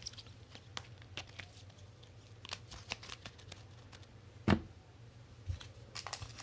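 Trading cards being handled and flipped through by hand: a run of light flicks and rustles, with one louder knock about four and a half seconds in.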